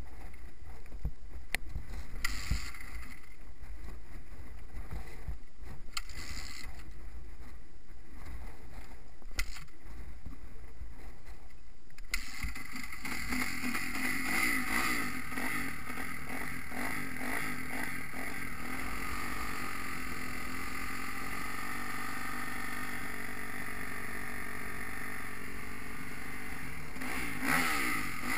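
Wind rumbling on the microphone with a few sharp knocks. About twelve seconds in, a Kawasaki KX250F motocross bike's single-cylinder four-stroke engine comes in suddenly, running steadily with its pitch wavering, and rising briefly near the end.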